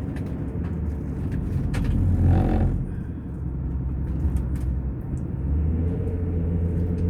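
Car driving on a road, heard from inside the cabin: steady engine and tyre rumble that swells louder for a moment about two seconds in.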